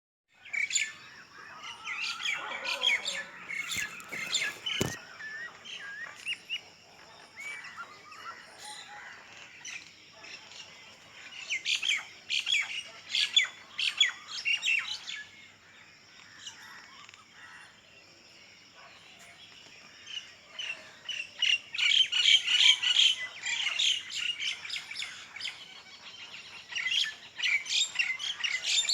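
Several birds chirping and calling in busy bursts, with a quieter stretch about midway. Two sharp clicks come about four and five seconds in.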